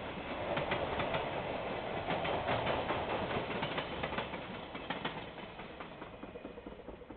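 Train wagons rolling past on the rails, their wheels clicking over rail joints, the sound fading away near the end.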